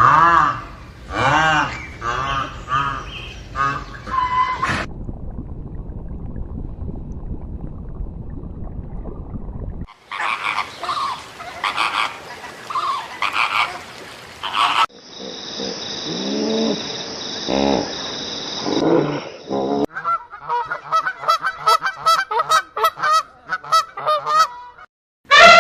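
A run of different animal calls, one short clip after another, cut abruptly about every five seconds; the last clip is a fast, regular train of pulsed calls.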